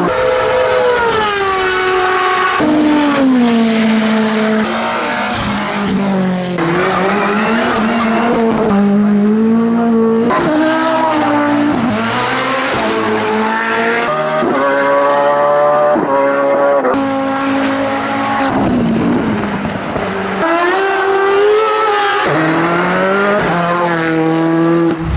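Hillclimb race car engines at full throttle in a string of short clips, the revs climbing and dropping sharply with each gear change.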